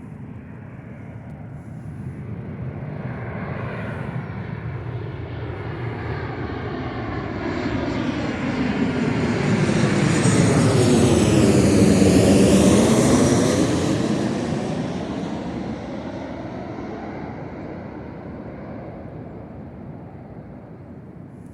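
An airliner on landing approach flying low overhead: its engine noise builds, peaks about twelve seconds in, and fades away, the pitch sliding down as it passes.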